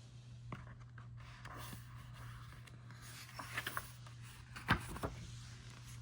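Quiet small-room tone with a steady low hum, broken by a few soft rustles and small clicks, the sharpest a little before the end.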